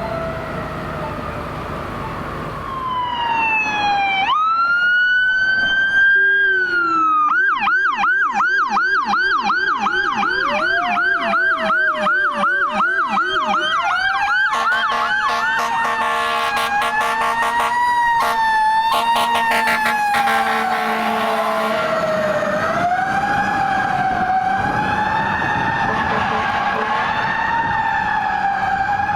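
Fire apparatus sirens: an electronic siren rises into a wail, then switches to a fast yelp of about three cycles a second, doubled by a Rumbler's low-pitched yelp. A horn then sounds steadily for several seconds over the sirens, and two sirens wail together, overlapping, near the end.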